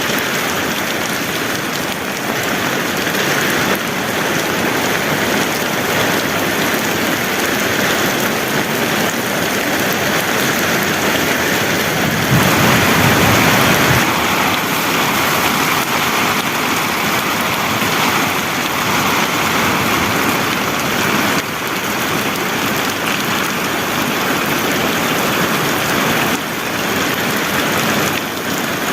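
Heavy rain falling steadily. Around twelve seconds in it swells briefly louder, with a low rumble.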